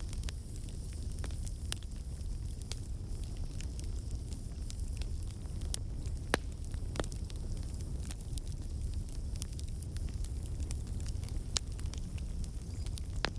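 Wood campfire burning: a steady low rumble of the flames under irregular sharp crackles and pops from the logs, a few of them louder. The crackling is the water and sap trapped in the wood turning to steam and bursting out.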